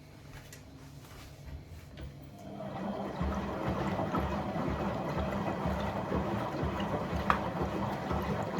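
Water sloshing and rushing inside an appliance running a quick cleaning cycle with a dishwasher tablet, rising from faint drips to a steady wash about two and a half seconds in, with one sharp click near the end.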